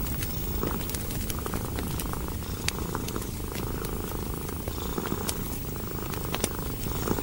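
Domestic cat purring steadily in a low continuous rumble, with a wood fire crackling: scattered sharp pops and snaps.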